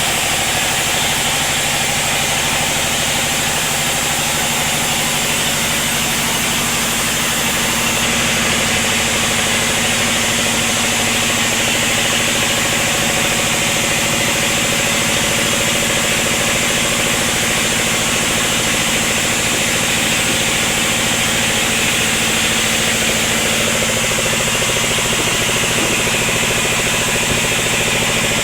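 Sawmill machinery running at a steady speed: a constant engine hum with a high, even hiss over it.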